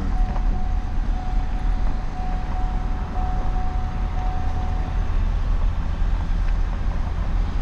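Vehicle cabin noise while driving slowly: a steady low engine and road rumble, with a faint thin steady tone that stops about five seconds in.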